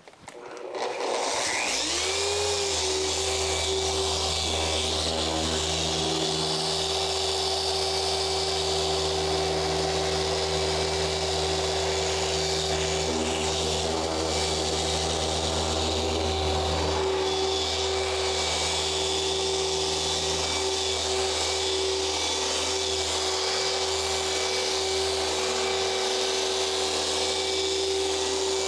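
Electric machine polisher spinning up about a second in, its pitch rising, then running steadily while it polishes the car's paint during paint correction.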